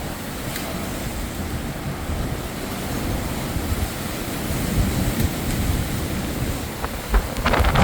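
Storm wind and rain gusting over the microphone, a steady rushing noise that swells after the middle. Near the end a few sharp crackles break through.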